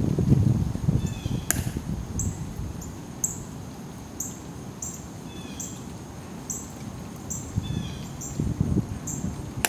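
Small bird chirping outdoors: a short, high chirp repeated about every half second, with a few softer falling calls now and then. Beneath it is a low background rumble, loudest in the first second and again near the end, and there is one sharp click about one and a half seconds in.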